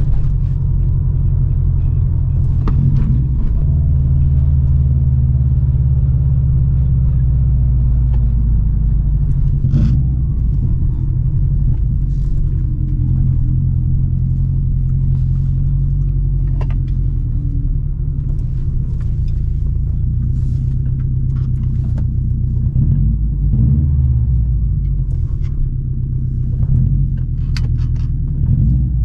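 2008 Subaru STI's turbocharged 2.5-litre flat-four running through a full Invidia exhaust (catted downpipe and N1 cat-back), a steady low rumble while cruising that swells and eases slightly with throttle. A few faint light clicks are heard over it.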